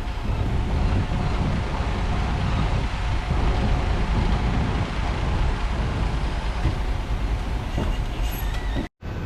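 Heavy diesel engine of earthmoving machinery running steadily, breaking off for a moment near the end.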